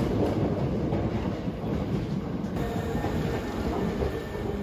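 Hankyu electric train running past a station platform, a loud rumble of wheels on rail. About halfway through the sound drops abruptly to a quieter, steadier rumble.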